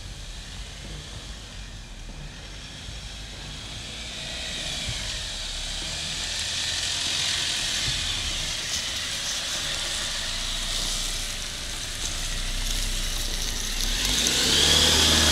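Jeep Wrangler Rubicon's engine pulling the vehicle slowly over a dirt hump off-road, growing louder as it comes closer, with the engine pitch rising and falling near the end.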